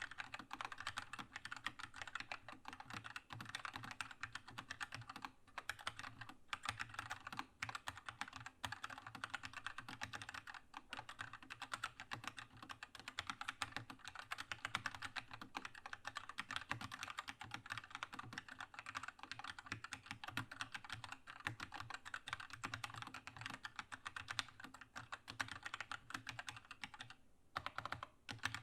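Continuous fast typing on a Keychron K2 mechanical keyboard with linear red switches: a dense, steady clatter of keystrokes, pausing briefly near the end.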